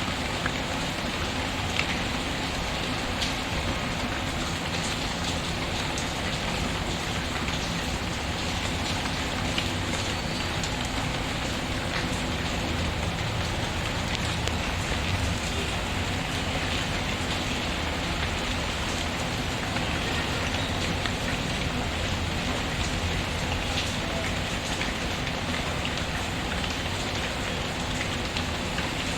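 Steady heavy rain pattering, with an occasional sharp crackle from a log fire.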